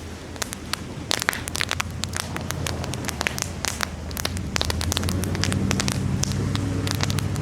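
Wood campfire crackling, with frequent sharp pops and snaps. A low steady hum underneath grows louder about halfway through.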